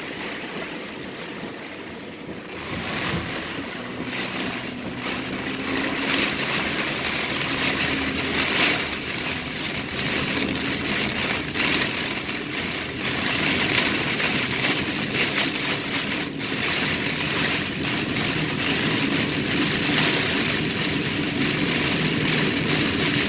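Heavy rain pelting the car's roof and windshield, heard from inside the cabin while driving, growing louder about three seconds in. The car's engine runs quietly underneath.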